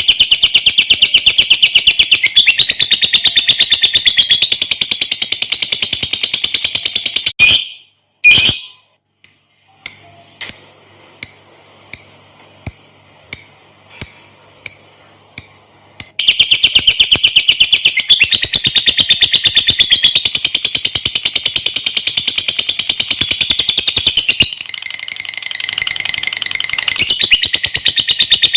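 Lovebird (Agapornis) singing its long 'ngekek' chatter: a shrill, very fast trill held for several seconds. About a quarter of the way in it breaks off into a short pause and a run of separate sharp chirps, about one and a half a second, before the long rapid trill resumes.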